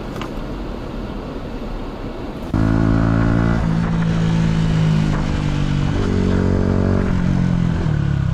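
Wind and road noise from a moving motorcycle, then from about two and a half seconds in a louder motorcycle engine running, its pitch holding and then shifting up and down a few times.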